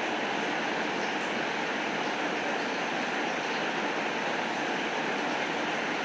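Steady rain falling: an even, unbroken hiss with faint scattered ticks.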